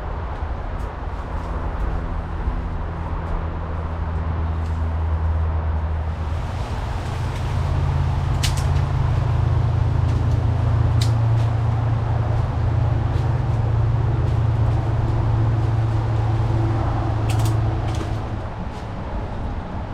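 A motor vehicle engine droning low, its pitch stepping up about seven seconds in, growing louder through the middle and easing off near the end. A few sharp clicks sound over it.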